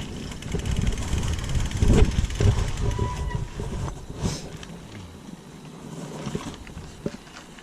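Mountain bike riding down a rough trail: wind buffeting the microphone, with rattles and knocks from the bike. It is loudest for about the first four seconds, then eases off.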